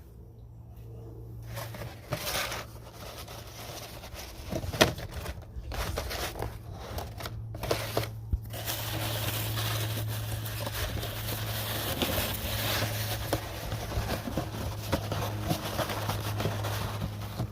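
Crinkling and rustling as a cardboard box and cloth are handled, with scattered clicks and scrapes, over a steady low hum.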